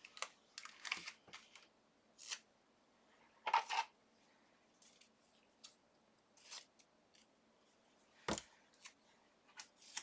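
Short, scattered rustles and clicks of adhesive tape being pulled off and applied to hold a thin metal cutting die on paper, with a sharper knock about eight seconds in.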